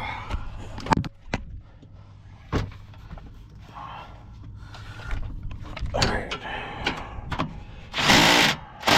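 Scattered sharp clicks and metallic knocks of hand tools working the nuts on a car's sway bar end links. A short, loud rushing burst comes near the end.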